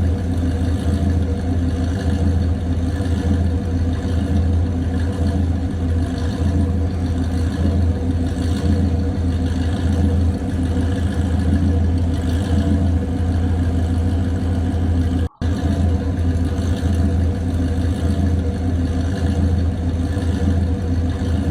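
Classic car engine idling steadily with a low rumble, broken by a brief cut about fifteen seconds in.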